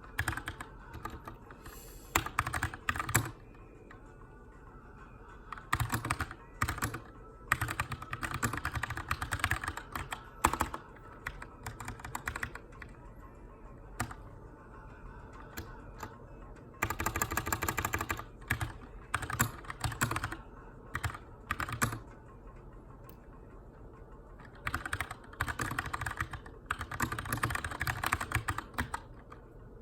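Typing on a Keychron K2 aluminium-framed mechanical keyboard with brown switches: bursts of rapid keystroke clicks broken by pauses of one to three seconds, as in text editing.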